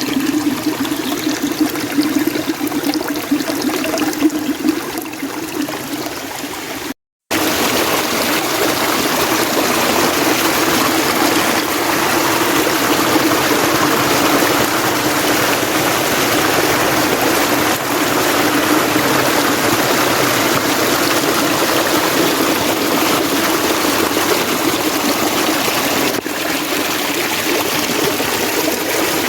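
Mountain stream water running steadily. About seven seconds in it cuts out for a moment, then resumes with a fuller, denser rush.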